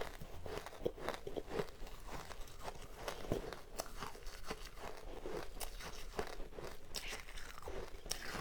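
Close-up crunching and chewing of powdery ice: a steady run of irregular short crunches.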